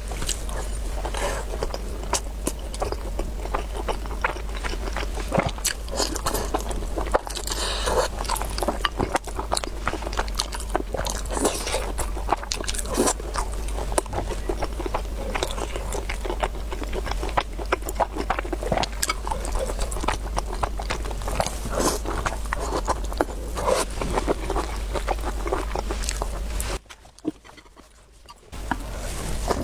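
Close-miked eating: a steady run of small wet chewing clicks and crunches, which stops briefly near the end, over a faint steady low hum.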